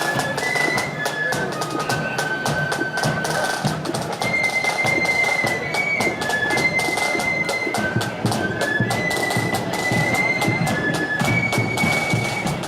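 Marching band playing a tune in the open air, with a high flute melody held over rapid snare-drum beating.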